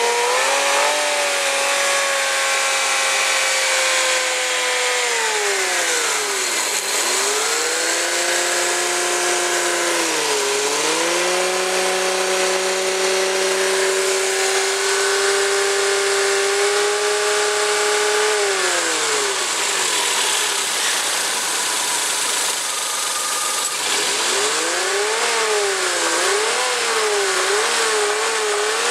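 Suzuki K6A three-cylinder engine being revved: held at raised revs, let fall back toward idle, then revved and held again twice, with several quick blips of the throttle near the end.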